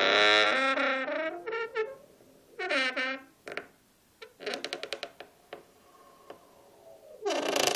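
Wooden door hinge squeaking as the door is moved: several pitched, wavering squeaks with pauses between them. About five seconds in there is a stretch of rapid stuttering creaks, and another squeak starts near the end.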